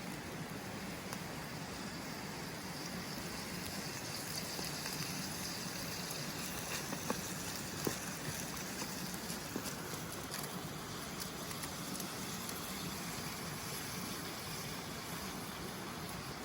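Cooking over a wood campfire: a steady hiss with a few sharp crackles, two of them standing out about seven and eight seconds in.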